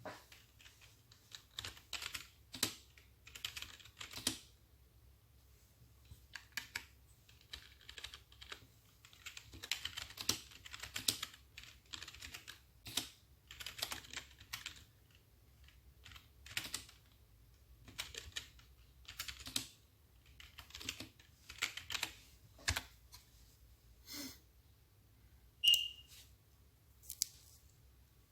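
Typing on a computer keyboard: irregular runs of keystrokes with short pauses between them, and one louder, sharper click near the end.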